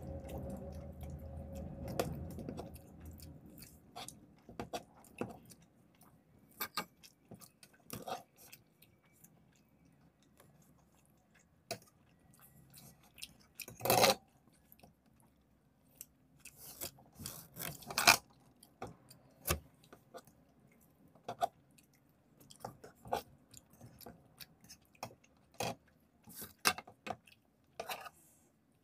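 Close-up eating sounds: chewing and biting of macaroni pasta and fried egg, with sharp mouth clicks and occasional fork clinks against the plates scattered throughout, the loudest about halfway through and again a few seconds later.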